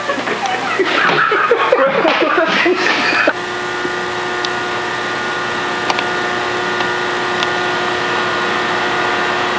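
Voices and laughter, then about three seconds in an abrupt cut to a steady hum of several fixed tones, with a few faint clicks over it.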